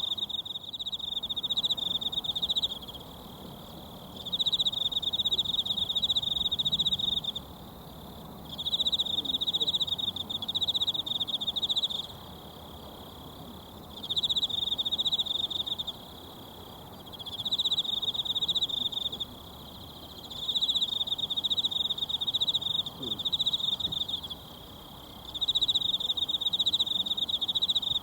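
An insect trilling loudly and high in repeated bouts of two to four seconds with short pauses between them, over the faint steady rush of a mountain stream.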